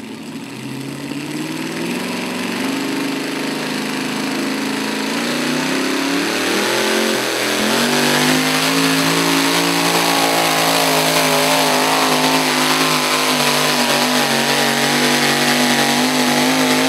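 Puller's engine at full throttle under heavy load during a pull: the pitch climbs over the first several seconds, then holds high and steady, loud, for the rest of the run.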